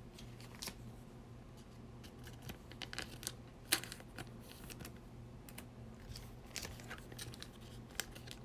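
Trading cards being handled and flipped through, with faint scattered clicks and rustles over a steady low hum.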